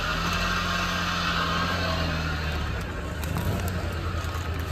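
A Suzuki Mehran VXR's small three-cylinder petrol engine idling steadily, freshly started.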